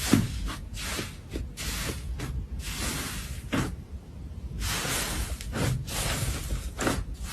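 Slime being handled and squished: irregular sticky, wet crackling and squelching, with a few sharp clicks.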